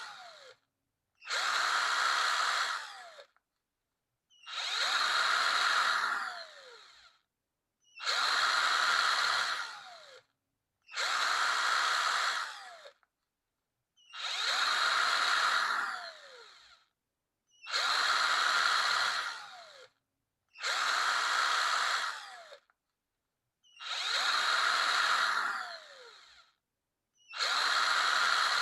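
Power drill run in short bursts about every three seconds, each a spell of high whirring that ends in a falling whine as the trigger is released and the motor spins down.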